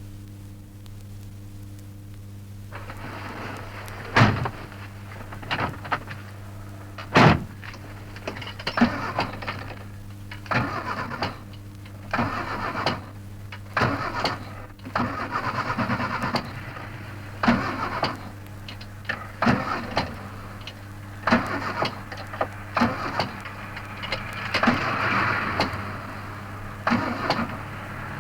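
An old recording of a car engine cranking and sputtering in irregular bursts, with two sharp bangs in the first third. A steady low hum from the old recording runs underneath.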